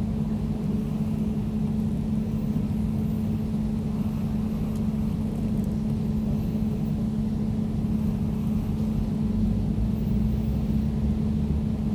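Air conditioner running steadily: a constant low hum with one droning tone over a rumble.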